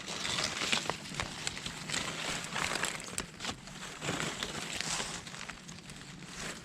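Rustling and crackling in dry leaf litter, with many small irregular clicks and snaps.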